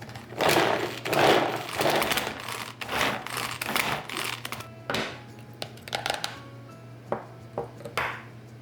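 Rapid clattering and scraping of kitchen food preparation, in runs of about half a second during the first four seconds, then a few single clicks, over quiet background music.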